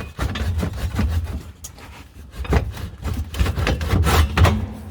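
Irregular rubbing and light knocks from hands working on a homemade steel exhaust pipe being fitted, with a short scraping swish about four seconds in.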